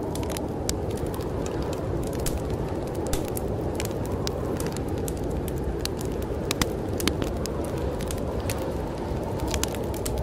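Wood fire crackling in a fireplace, with frequent sharp irregular pops, over a steady low rush of storm wind.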